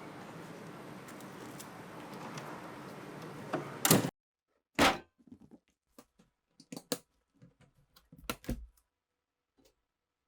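A steady hiss of background noise that cuts off about four seconds in, followed by scattered sharp clicks and knocks of metal parts as an old pistol is handled, about a dozen in all.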